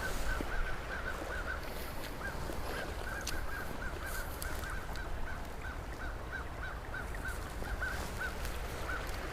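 Birds calling: a long, irregular run of short, repeated calls, several a second, over the steady rush of the stream.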